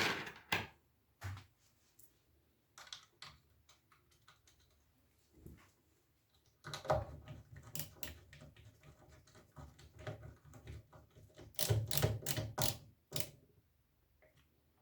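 Irregular small metal clicks and taps of screws and capacitor bridge bars being handled and screwed down with a screwdriver. A few scattered clicks at first, then dense clicking and rattling from about halfway through.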